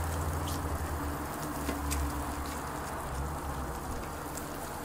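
Butter and bacon sizzling on a hot flat-top steel griddle as a stick of butter is rubbed across the surface, a steady frying hiss with a few faint pops, over a low steady hum.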